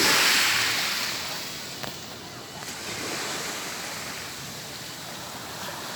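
Ocean surf on a beach: a wave breaks at the start and its wash fades over the next two seconds, with a smaller surge of surf about three seconds in.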